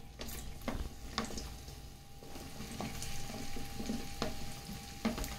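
Cut okra tipped from a plate into hot oil in a nonstick kadhai, with a light sizzle of frying and several scattered knocks as pieces and the spatula land in the pan.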